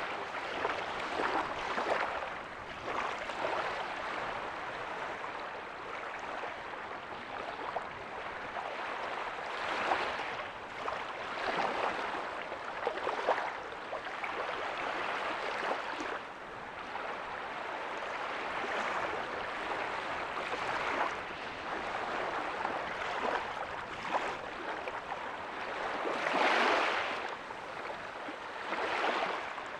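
Small ocean waves breaking on a beach and washing back, a steady hiss of surf that swells every few seconds, loudest near the end.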